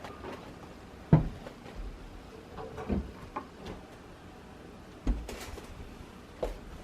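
A few sharp knocks and clunks of objects being handled, the loudest about a second in and others spread through the rest, with light clicks in between.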